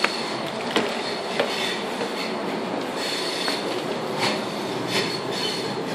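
Inside a moving Sydney Millennium electric train carriage: steady running noise, with sharp clicks from the wheels and rails every second or so and a faint high tone that comes and goes.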